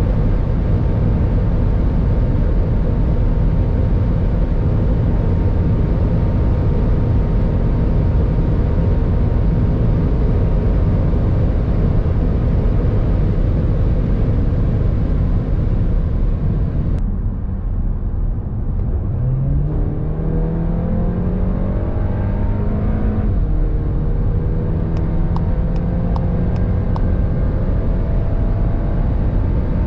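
CUPRA Ateca's turbocharged 2.0-litre four-cylinder engine under full throttle near top speed, steady, with heavy wind and tyre noise in the cabin. After a cut about 17 seconds in, the engine note rises as the car accelerates, drops with an upshift about 23 seconds in, and rises again in fourth gear.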